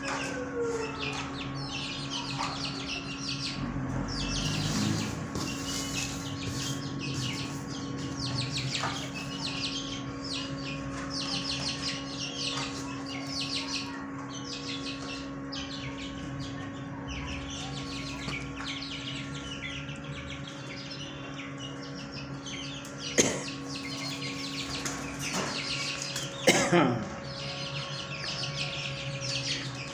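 A flock of caged fancy birds chirping busily and without a break, over a steady low hum. Two loud sharp sounds stand out, about 23 and 26 seconds in.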